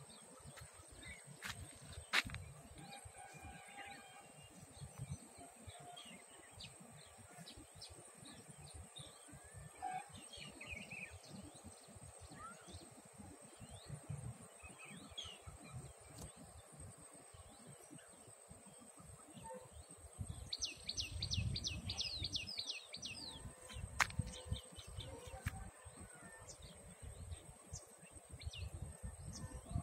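Birds chirping and calling sparsely, with a fast run of repeated high notes about two-thirds of the way through, over a low rumble and a steady faint high whine.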